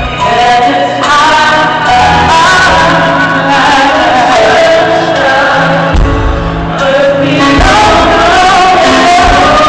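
Gospel music: voices singing over instrumental backing with a moving bass line.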